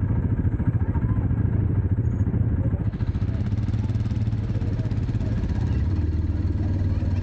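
Dirt bike engine running steadily with a fast, even firing pulse.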